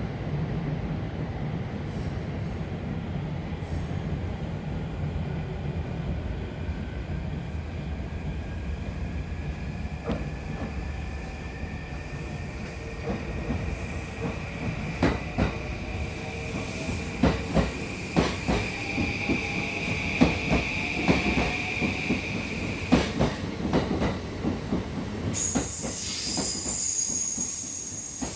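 JR East E235 series 1000 electric train moving through the station: its wheels click over rail joints, and a steady high whine from its traction motors runs underneath. A high-pitched wheel or brake squeal comes in near the end.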